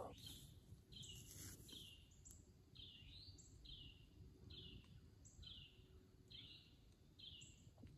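A small songbird calling over and over, a short high note about once a second, faint against quiet woodland background.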